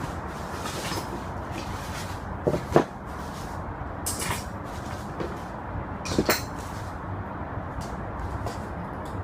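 A few scattered knocks and clanks of tools and metal parts being handled while a scooter is taken apart. The loudest pair of knocks comes near the middle, over a steady low background noise.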